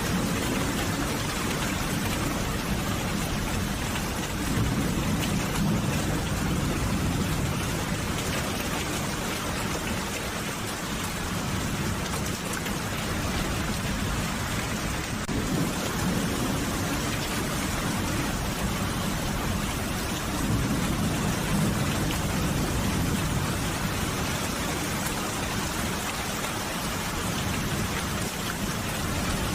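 Steady rain falling in a dense, even hiss, with slow low rumbling swells every several seconds.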